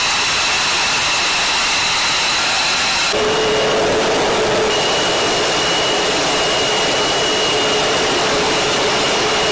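Jet aircraft engine running steadily: a loud even rush with thin, high steady whines over it. About three seconds in, the sound jumps to a different shot, with a new whine lower down.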